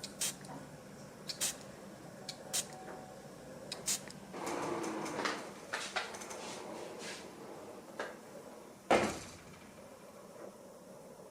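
Light clicks and knocks of things being handled, with a short rustling, scraping stretch about four seconds in and a sharper knock about nine seconds in.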